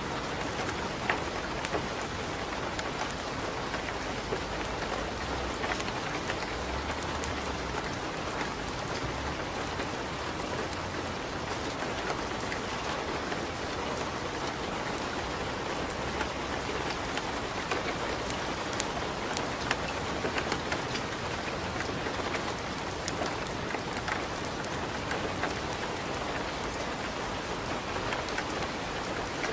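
Steady rain, dotted throughout with short sharp crackles and pops of a wood fire burning in a fireplace.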